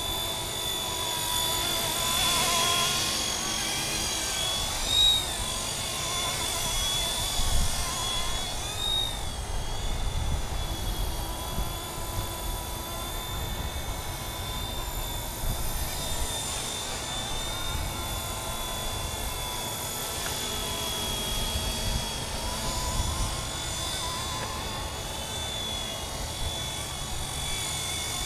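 Radio-controlled MD 500 scale model helicopter in flight: a steady high rotor and motor whine, with brief rises in pitch about 5 and 9 seconds in. Gusty wind buffets the microphone throughout.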